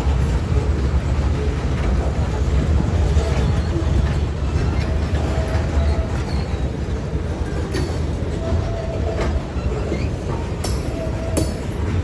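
Freight cars of a Winchester and Western Railroad train rolling over a grade crossing: a steady low rumble with wheel clacks that grow sharper after about eight seconds, and now and then a short, faint wheel squeal.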